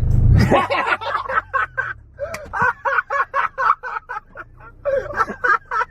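A person laughing hard in rapid, repeated bursts, with a low car rumble fading out at the start.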